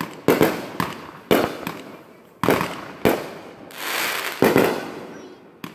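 Fireworks exploding in a string of sharp bangs, about eight at uneven intervals of half a second to a second, each followed by a fading echo. A hissing crackle from crackling star shells swells about two-thirds of the way through.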